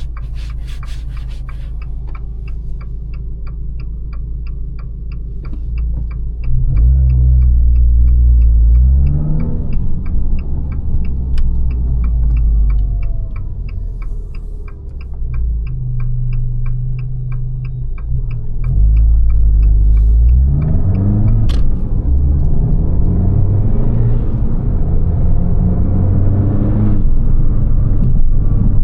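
Abarth 595 Competizione's turbocharged 1.4 T-Jet four-cylinder through its Record Monza exhaust, heard from the driving seat. It runs low and steady under a regular tick about two and a half times a second, like a turn signal. It then accelerates hard twice, about six seconds in and again near twenty seconds, its note climbing in pitch through the pulls.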